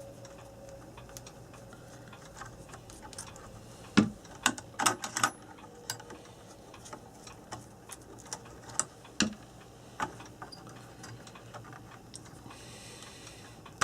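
Irregular clicks and light clatter of small parts being handled at a workbench, likely a search through a supply of wire nuts, with a few sharper knocks about four to five seconds in and again near nine and ten seconds.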